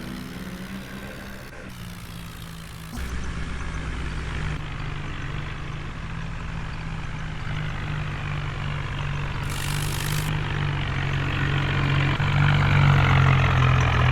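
Diesel engine of heavy machinery running steadily. Its level jumps suddenly about three seconds in and grows louder toward the end.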